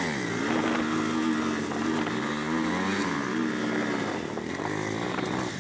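Motorcycle engine under way: the revs dip sharply right at the start, then hold fairly steady, easing off and picking back up about three seconds in. A steady hiss of wind and road noise runs underneath.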